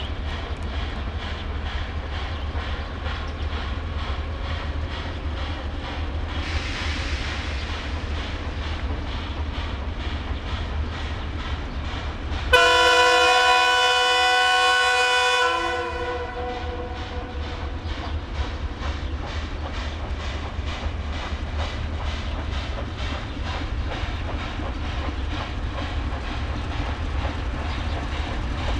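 Steam locomotive running, with a steady rhythmic beat over a low rumble and a short burst of hiss about a quarter of the way in. About halfway through, its whistle sounds for about three seconds; this is the loudest sound.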